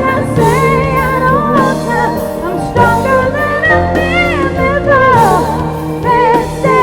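Music: a woman singing long held notes with wide vibrato over a band accompaniment with steady bass notes.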